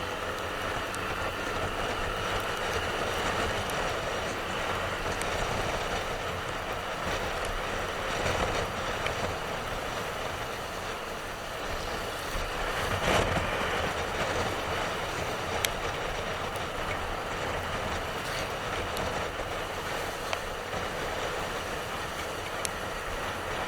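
Motorcycle on the move: steady engine drone mixed with wind and road noise, with a brief louder rush about halfway through.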